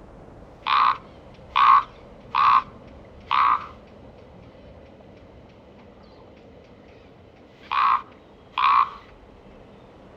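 A bird calling: six short calls, a run of four about a second apart, then a pause and two more close together near the end.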